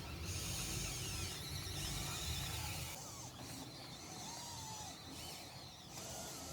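Small electric motors and gearing of a radio-controlled model bulldozer whirring for about three seconds, then dropping off to a fainter whirr.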